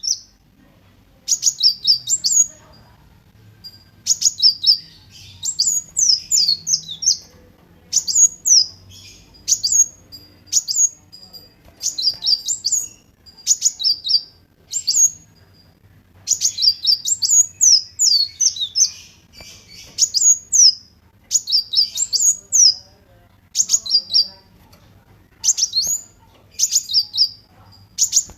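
Kolibri wulung sunbird singing: loud, repeated phrases of high, quickly sweeping chirps, each about a second long, with short pauses between them.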